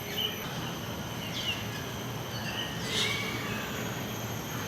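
A few short bird chirps, each falling quickly in pitch, spaced a second or more apart over steady background noise.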